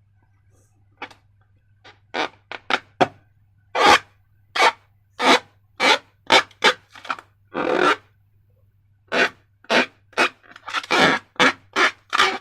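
Slime being worked by hand: a run of about twenty short, irregular squishing sounds, coming closer together near the end, over a faint steady low hum.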